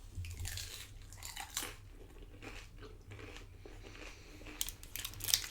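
Crunching bites and chewing of tortilla-chip nachos loaded with cheese and toppings, in irregular crunches that grow louder and closer together near the end.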